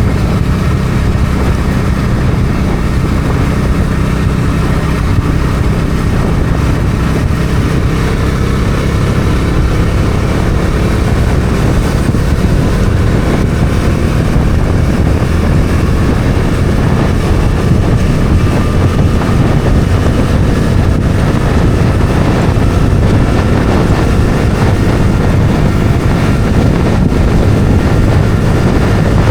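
Bajaj Dominar 400's single-cylinder engine running steadily at road speed, with wind noise on the microphone.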